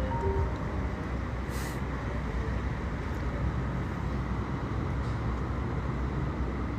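Steady rumble of street traffic, with a brief hiss about a second and a half in.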